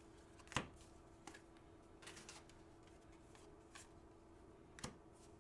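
Faint handling of trading cards: a few soft, irregular clicks and flicks as cards are slid and flipped through a pack, over a faint steady hum.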